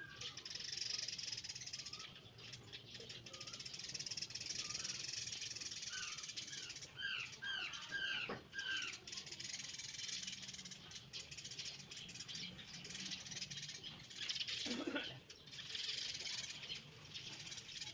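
Birds calling, with a quick run of about six short, arched notes repeated near the middle and a few scattered chirps, over a steady hiss.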